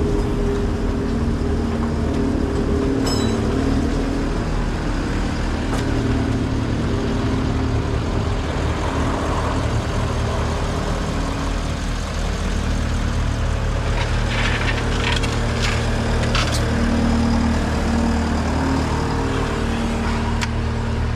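A motor vehicle or machine engine running steadily, with a few sharp clicks or knocks.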